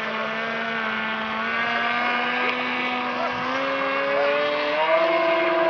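Radio-controlled model seaplane's motor running steadily, then throttled up in two steps, its pitch rising about three and a half seconds in and again near the end.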